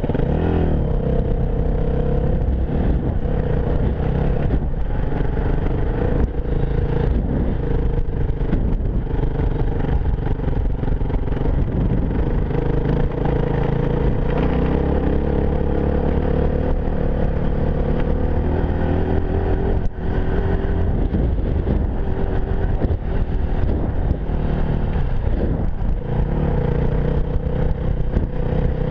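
Enduro motorcycle engine running steadily while riding, its pitch rising and falling a little with the throttle.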